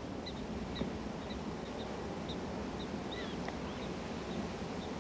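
Outdoor grassland ambience: a steady low rush of wind noise with a series of short high chirps, about two a second, and a few sliding calls about three seconds in.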